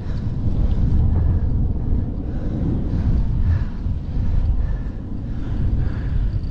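Wind buffeting the microphone with tyre and road rumble from a bicycle riding at speed; a steady, noisy low rumble.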